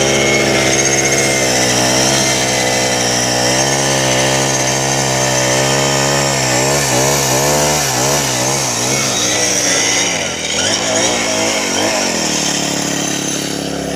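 Craftsman 30cc four-stroke string trimmer engine running steadily. From about halfway through, its speed rises and falls about twice a second for several seconds, then it settles into a lower, steady idle near the end.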